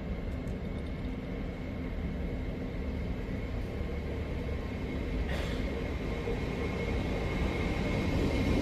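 LNER Class 800 Azuma train approaching along the platform line, its rumble growing steadily louder as it nears, with a steady high whine and a brief hiss about five seconds in.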